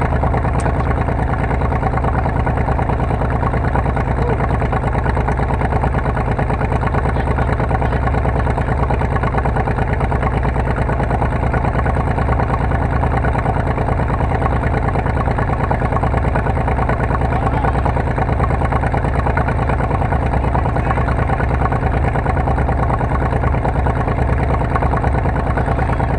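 Car engine running steadily, a loud low pulsing drone with no break or change.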